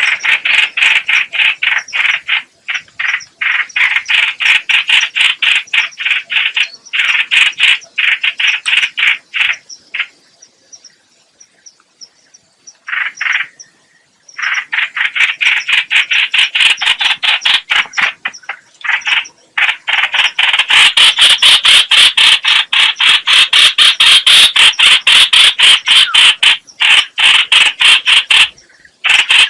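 Bird called trao trảo (chao chảo) in Vietnamese, calling in fast strings of short, harsh repeated notes at several notes a second. The calling pauses for a few seconds about ten seconds in, then runs on unbroken through the second half.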